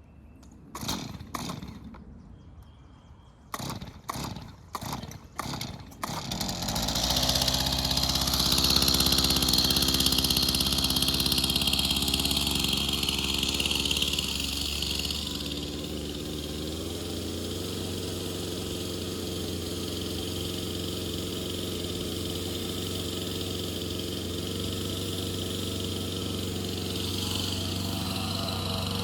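Two-stroke chainsaw being pull-started: a few short pulls, then the engine catches about six seconds in, runs fast for several seconds and settles to a steady, lower run.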